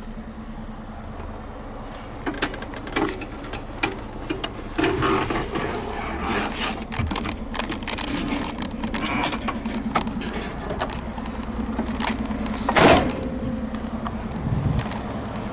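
Volvo F10 truck's diesel engine idling steadily, with scattered clicks and knocks over it and one louder knock near the end.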